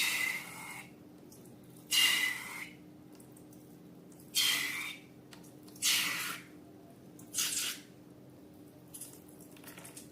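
Wet slime squelching as it is squeezed and pulled by hand, in five separate squishes about every one and a half to two seconds, with fainter ones near the end.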